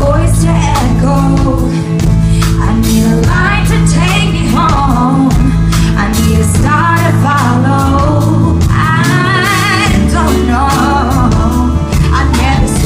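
Live pop ballad: a woman's lead vocal sings long held notes and runs with strong vibrato over a band with drums and low sustained bass or keyboard notes. The most forceful sung note comes about nine seconds in.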